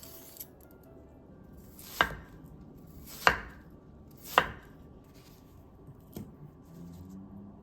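Kitchen knife cutting on a cutting board: three strong chops about a second apart, each with a short slicing sound just before the knife hits the board, then a few lighter taps.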